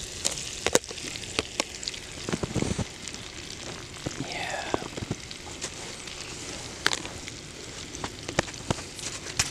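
Vegetables sizzling in a skillet on a wood-burning rocket stove, with scattered pops and crackles throughout.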